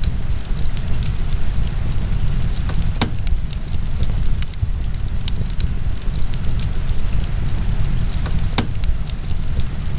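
Wood fire burning in a fireplace: sharp crackles and pops scattered over a steady low rumble, with two louder cracks about three seconds in and near the end.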